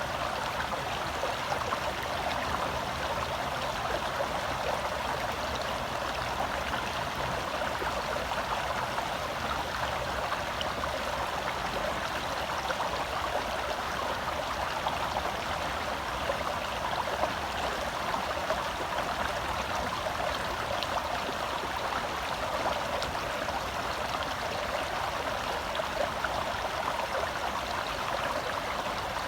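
Shallow forest stream flowing over rocks: a steady rush and babble of water that stays even throughout.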